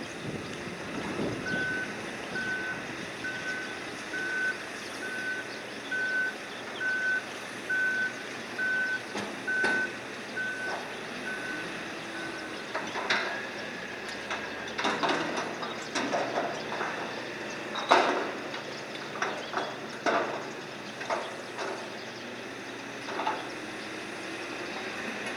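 Electronic warning beeper of cargo-handling machinery, a single high beep repeating about once a second for around ten seconds, then stopping. Irregular metallic clanks and knocks of cargo being handled follow, the loudest about three-quarters of the way through.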